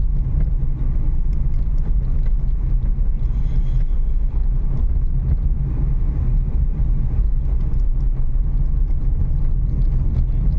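Renault Kiger SUV driving slowly over a badly broken forest road: a steady low rumble of engine and tyre noise.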